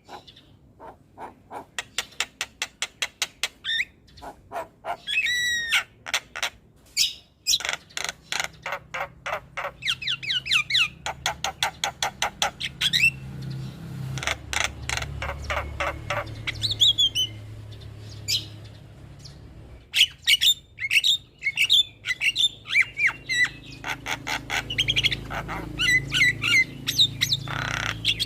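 Javan myna (jalak kebo) calling: long runs of fast clicking chatter broken up by harsh squawks and a few short rising and falling whistles.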